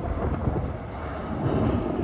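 Highway truck traffic: a steady rumble of engines and tyres, with wind buffeting the microphone.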